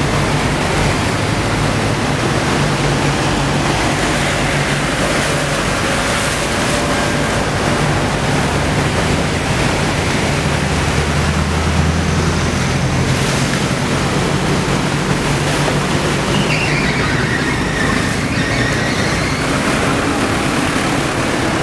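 A motor running steadily under a constant loud rush of water and wind noise. A faint high gliding tone passes near the end.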